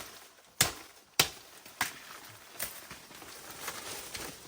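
Chopping with a blade into a plant stem while harvesting: about five sharp, uneven strikes, the loudest about a second in and lighter ones after.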